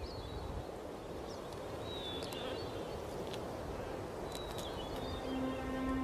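Outdoor nature ambience with a few short, faint, high bird chirps. Music with a steady held low note comes in about five seconds in.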